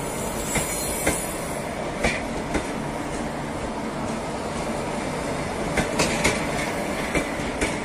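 Double-deck passenger coaches rolling past on a departing train, a steady rumble of wheels on rail broken by sharp clacks in pairs as each bogie's wheelsets cross the rail joints.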